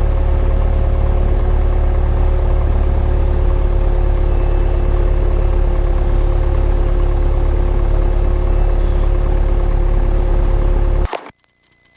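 Light airplane's piston engine idling at about 1,000 RPM, a steady loud drone heard inside the cockpit with two steady tones over it. About eleven seconds in it cuts off suddenly, leaving only a faint steady tone.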